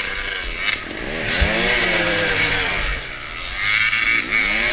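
Dirt bike engine revved up and falling back in a few short bursts, about three times.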